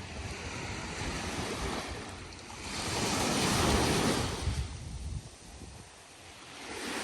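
Ocean waves on a beach: a wave surges loudest about three seconds in, washes back and fades by about six seconds, and the next one builds near the end.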